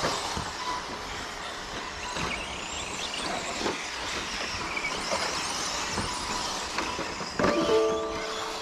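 Electric 1:10 scale short course RC trucks racing: a steady hiss of tyres with shifting high-pitched motor whine, and a few light knocks. A short steady tone sounds near the end.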